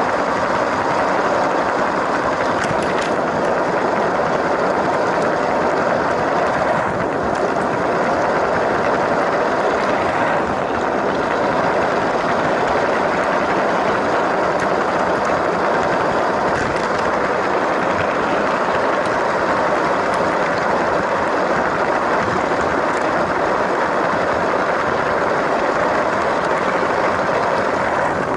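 LEGO train running along its track: the small electric motor whirring and the plastic wheels rolling, a steady noise heard close up from a camera riding on the train.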